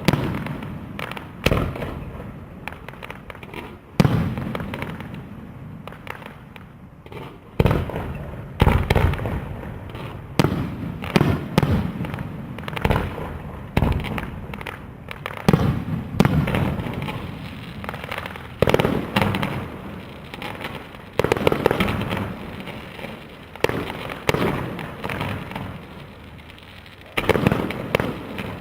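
Display fireworks: aerial shells bursting in irregular quick succession, each a sharp bang followed by a rolling, echoing tail, with smaller pops and crackles in between.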